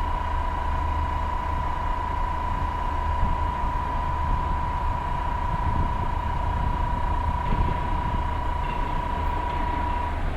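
KiHa 37 diesel railcar's engine running at idle with a steady low rumble. A single steady electronic tone sounds over it and stops shortly before the end.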